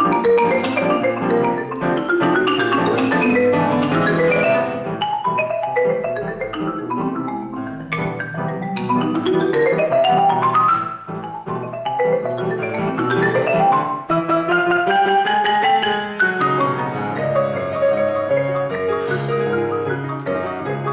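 Marimba playing rapid passages of struck notes in a concerto, with two fast rising runs about halfway through over sustained low notes.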